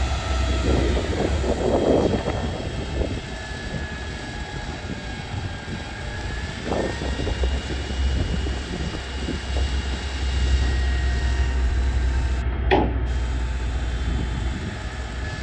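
A crane's engine running steadily with a faint whine that rises and falls, under a heavy low rumble of wind on the microphone; a single sharp knock near the end.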